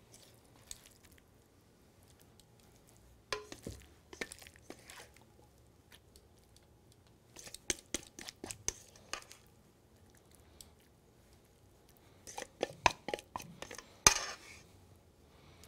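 A utensil clicking and scraping against a bowl in three short spells while mixing and scooping a moist spinach and cheese filling, the sharpest knock near the end.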